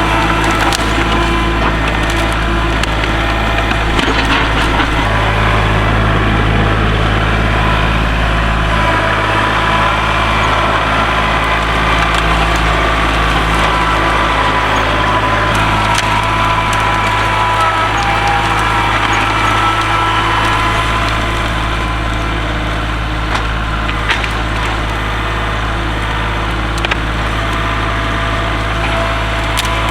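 Kubota tractor's diesel engine running steadily, with wood and branches cracking and snapping as the grapple handles fallen trees.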